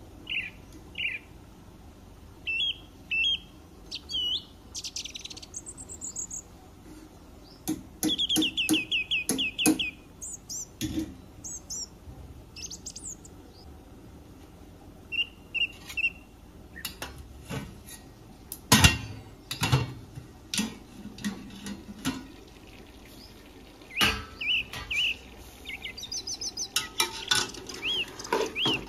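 Birds chirping in short calls, with a quick trill of repeated notes about eight seconds in. Scattered sharp clicks and knocks come in among them, the loudest about nineteen seconds in.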